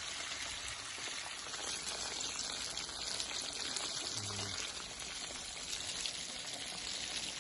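Cooking oil sizzling in a pan on the stove, a steady hiss, with a brief low hum about four seconds in.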